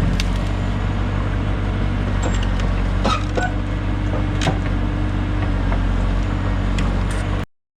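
JCB backhoe's diesel engine running steadily under load as the boom pulls out a stump, with a few sharp cracks and knocks. The sound cuts off abruptly near the end.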